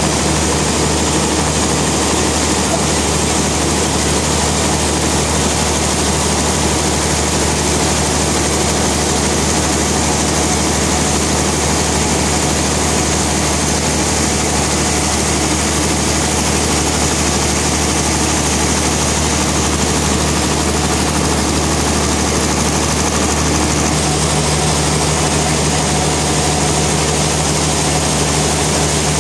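Sawmill machinery running steadily: a continuous low engine-like hum under a broad hiss, with the low hum growing a little stronger near the end.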